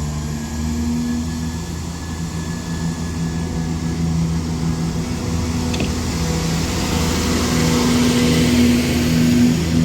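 Class 170 Turbostar diesel multiple unit's underfloor diesel engines running with a steady drone, its tones stepping in pitch and growing louder over the last few seconds as the unit departs.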